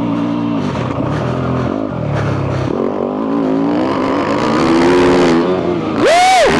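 2022 Yamaha YZ250F's 250cc single-cylinder four-stroke engine, breathing through a full FMF exhaust, revving up and down under riding. Its note drops low about two seconds in, then climbs steadily before falling away near the end.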